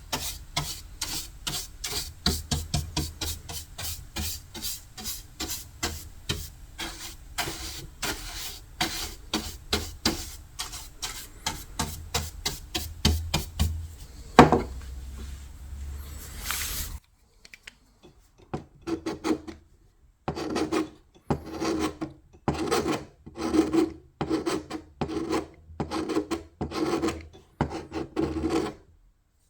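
Hand tool rubbing back and forth over wood, stripping old paint and finish: quick, even strokes at first with one sharp knock halfway through, then after a short pause slower, heavier strokes.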